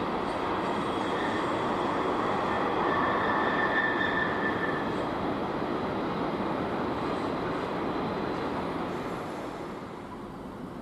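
Intermodal freight train of container wagons rolling past, with a steady rumble and clatter of wheels on the rails. A thin high wheel squeal rises over it for a couple of seconds in the middle. The sound drops away after the last wagons have gone by, near the end.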